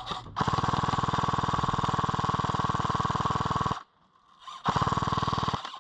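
Electric airsoft light machine gun firing full-auto: a long rapid rattling burst of about three and a half seconds, a short pause, then a second burst of about a second.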